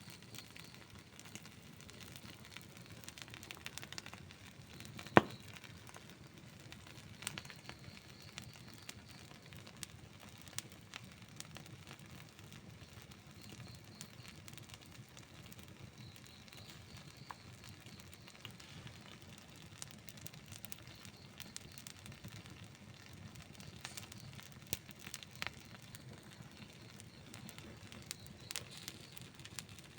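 Wood campfire burning, a faint steady hiss with scattered crackles and pops, and one much louder sharp pop about five seconds in.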